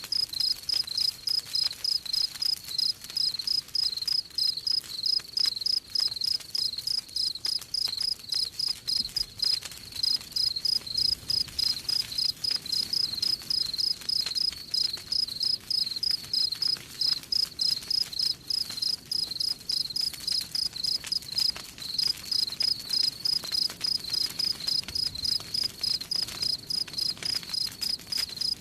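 Cricket chirping in an even, fast rhythm of about three chirps a second, with faint campfire crackles underneath.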